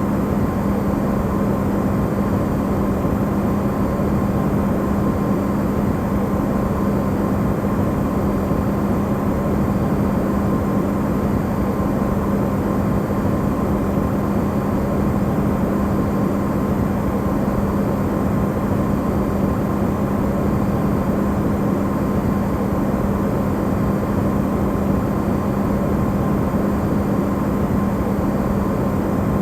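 Electrolux refrigerator running, recorded amplified: a steady, even rushing noise with a constant low hum that does not change.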